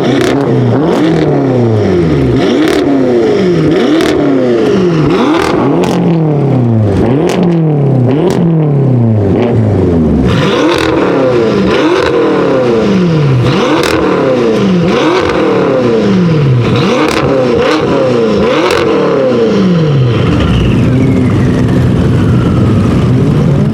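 BMW M5 F10's twin-turbo V8, breathing through an Akrapovic exhaust, revved over and over in quick blips, its pitch rising and falling with sharp cracks in between. Near the end a last rev falls away.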